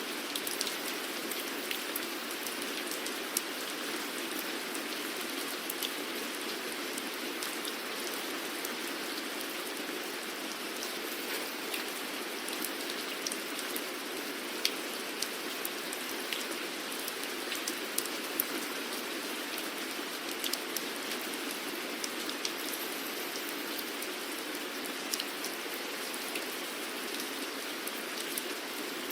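Steady rain falling, with the sharp ticks of individual drops hitting a surface scattered irregularly through a continuous hiss.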